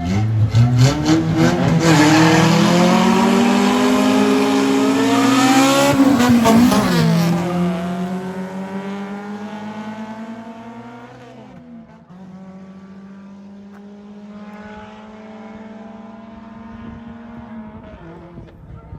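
A race car accelerating hard, its engine climbing in pitch and loud, then dropping sharply in pitch about six to seven seconds in and fading as it draws away down the strip.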